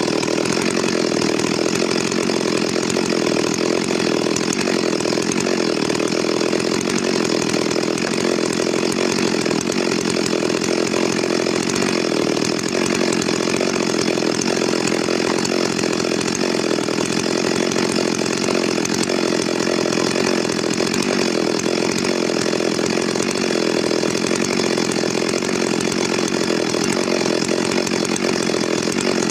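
Stihl MS 382 two-stroke chainsaw running steadily at high speed without letting off, cutting wood.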